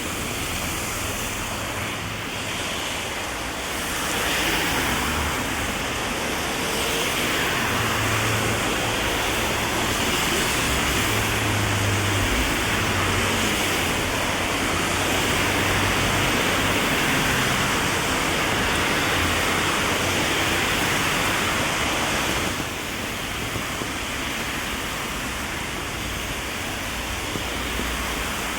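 Heavy rain hissing steadily on an umbrella and the wet street, with a low rumble underneath. It swells a few seconds in, then drops suddenly to a lighter level near the end.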